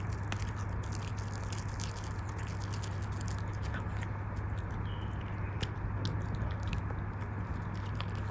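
A dog chewing and biting on a dental chew bone, with irregular sharp clicks and crunches of teeth on the chew over a steady low hum.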